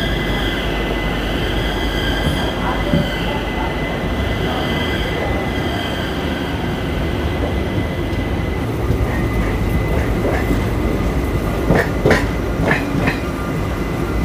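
Passenger train moving off and gathering speed, heard from the coach: steady wheel-on-rail rumble with a thin high whine that fades about halfway. Several sharp clacks over rail joints follow near the end.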